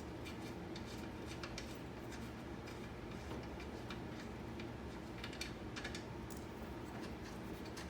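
Faint, irregular light clicks and ticks of hand tools working fasteners in a car's engine bay, some coming in short runs, over a low steady hum.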